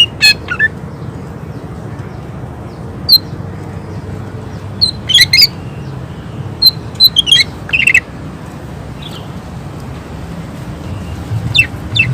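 Green leafbird (cucak ijo) singing in short, sharp bursts of quick sweeping high notes, in clusters a few seconds apart, over a steady low background rumble.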